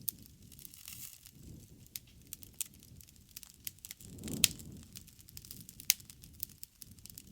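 Wood bonfire crackling, with irregular sharp snaps and pops over a low rush of flame. The flame noise swells about four seconds in, peaking with a loud pop, and another loud snap follows a little later.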